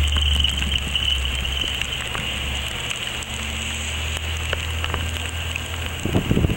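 Vehicle running, heard from inside the cabin while driving along snowy streets: a steady low engine drone with an even hiss over it. About six seconds in a rougher rumble, like wind on the microphone, comes in.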